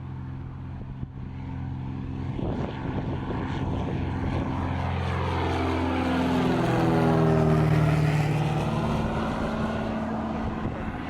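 Propeller aircraft departing and passing close by. Its engine note grows louder to a peak about seven seconds in, then falls in pitch as it goes past.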